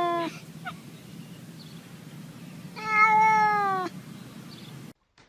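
Domestic cat meowing: a drawn-out meow ends just after the start, then one more meow of about a second comes a little past halfway, falling slightly in pitch at its end.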